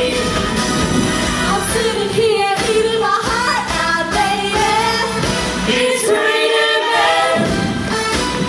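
Live pop music with several voices singing together, holding and bending sung notes over the band.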